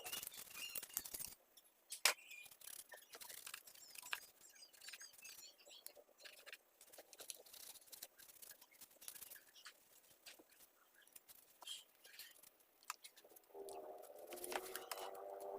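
Scattered light clicks and taps, one of them sharper about two seconds in, from the handling of a mini chainsaw's parts during cleaning. Near the end a pitched hum sets in and rises.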